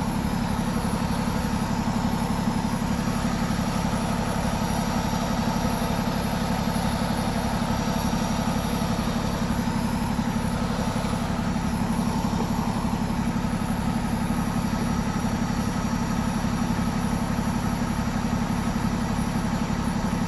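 A vehicle engine idling steadily, with an even low hum and a fast, regular pulse.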